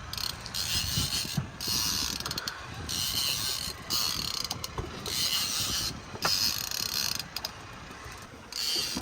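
Big-game fishing reel working under a hooked mahi: a high, whirring ratchet sound in repeated bursts about a second long with short gaps between them, over a low boat rumble.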